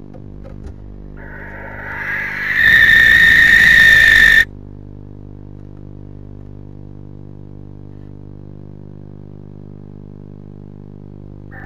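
A barn owl gives one harsh screeching call lasting about three seconds. It builds up and then cuts off suddenly, over a steady low hum.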